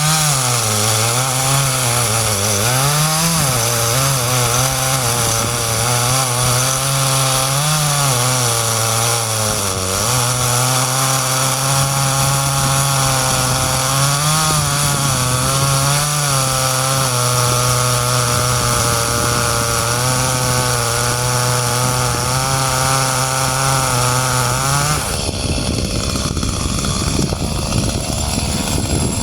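Chainsaw running at high revs, its engine note dipping and rising as it works. About four seconds from the end the steady note gives way to a rougher, noisier sound, then the saw revs back up.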